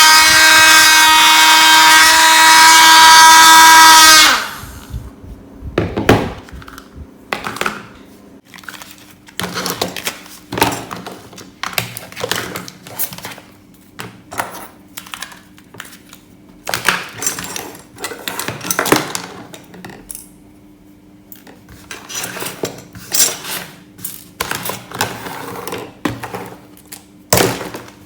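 Small high-speed Tamiya 'dinamo setan' DC hobby motor driving a homemade vacuum cleaner, running with a loud steady high whine that cuts off suddenly about four seconds in. After it stops, scattered clicks and knocks of parts being handled.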